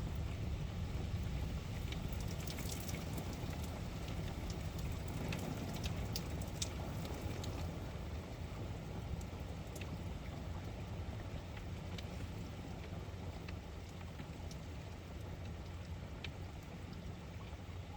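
Steady rain falling, with scattered drops ticking sharply. A low rumble underneath slowly fades away.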